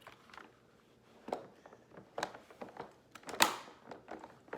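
Scattered knocks and handling noises, the loudest a short sharp crackle about three and a half seconds in.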